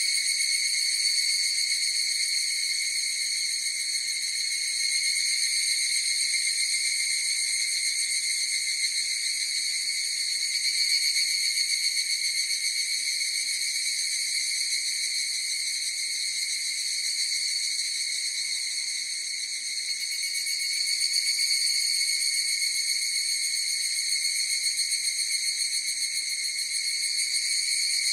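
Chorus of higurashi (evening cicadas) calling: a continuous shrill, high trill that never breaks off, swelling and easing a little in loudness.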